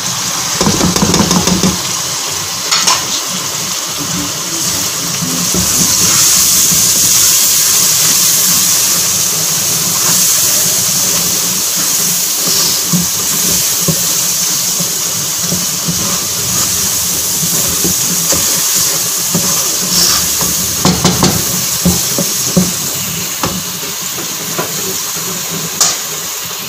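Onion, tomato and spice masala sizzling in oil in a pot, with a wooden spatula stirring and scraping against the pot in scattered clicks. The sizzling is a steady high hiss.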